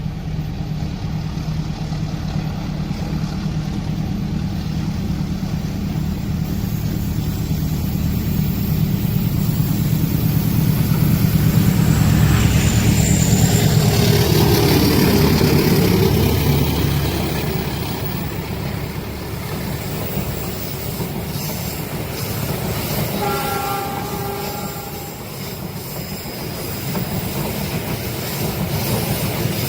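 A train passing: the locomotive's engine hums steadily and grows louder, peaks about twelve to sixteen seconds in, and drops in pitch as it goes by. The wagons then keep rolling on the rails at a lower level. A brief pitched tone sounds about twenty-three seconds in.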